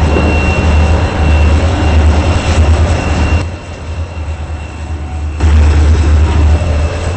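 A train led by an EMD GP38-3 diesel locomotive rolling past with a steady low rumble and a thin, steady high squeal over it. The sound drops quieter for about two seconds midway, then comes back up.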